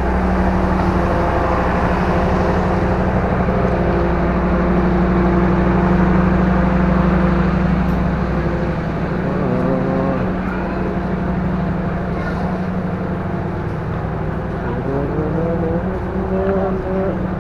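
Diesel train engine running steadily at the station platform: a continuous low hum, with short rising tones about ten seconds in and again near the end.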